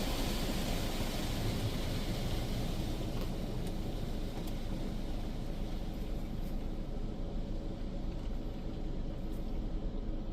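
Water spraying onto the car body, heard from inside the cabin, as the spot-free rinse stage of an automatic tunnel car wash runs. The hiss of the spray dies away over the first half, leaving a steady low rumble.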